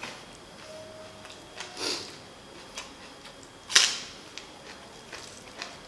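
Bites and chewing of crisp raw green onion stalks dipped in chili sauce: small mouth clicks and wet sounds, with one sharp crunch a little under four seconds in, the loudest sound.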